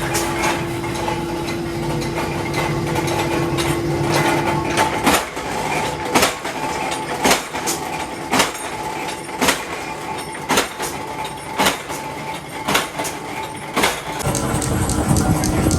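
Steady workshop machine hum for about five seconds, then nine evenly spaced metallic knocks, about one a second, each ringing briefly.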